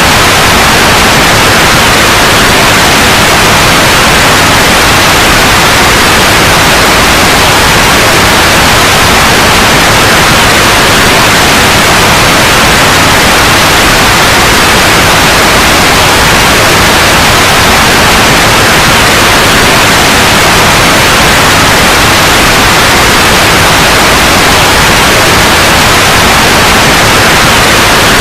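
Steady, loud white noise: an even, unchanging hiss with no other sound.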